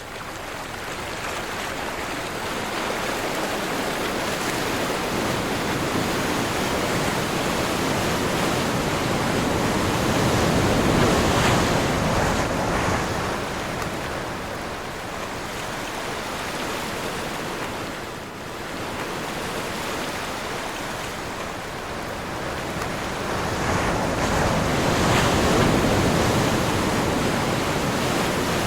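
Sea waves surging and breaking, with wind blowing over them: a continuous rush that swells to a peak about a third of the way in and again near the end.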